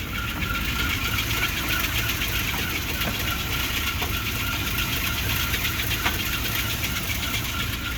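A 1963 Ford Thunderbird's 390 V8 idling steadily.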